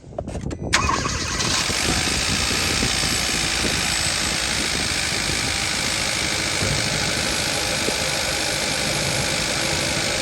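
2015 Kia Forte's 1.6 GDI four-cylinder engine starting about a second in, then idling steadily with the cylinder 3 ignition coil connector unplugged. The idle does not change with the coil unplugged, a sign that the cylinder 3 coil is bad.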